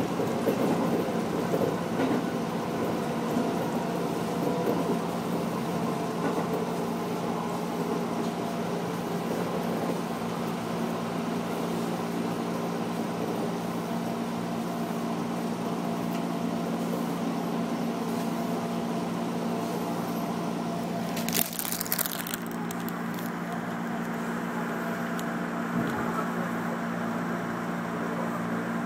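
Electric commuter train running along the track, heard from behind the driver's cab: a steady hum of motor and running noise. About 21 seconds in there is a brief, loud hiss lasting about half a second.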